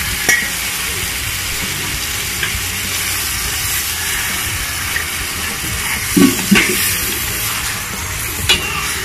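Chicken pieces sizzling in their juices in a stainless steel pan while a metal ladle stirs them, clinking against the pan a few times, loudest about six seconds in and again near the end.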